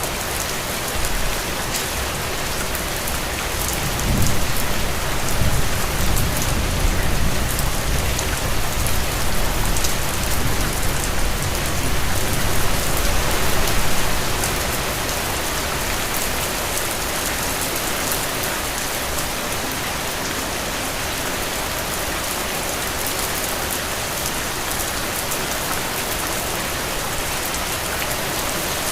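Steady rain falling on hard surfaces, an even hiss and patter. A deep low rumble swells in about four seconds in and fades out near the middle.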